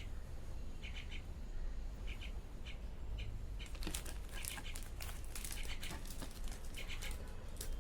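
Plastic instant-noodle packet crinkling and rustling as it is handled and torn open, starting about halfway. Short, repeated high chirps like a small bird's sound before and between the crinkles.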